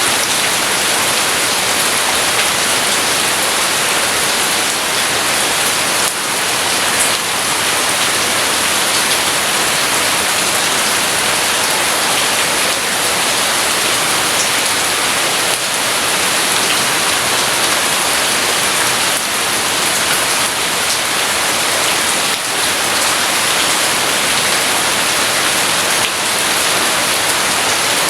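Steady rain falling, an even hiss with no thunder heard.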